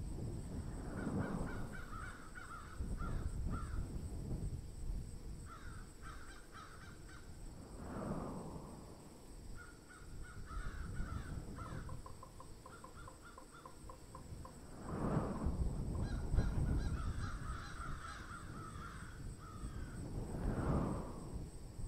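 Birds calling in several runs of harsh, rapidly repeated notes. Bursts of low rumbling come and go beneath them, loudest about fifteen seconds in.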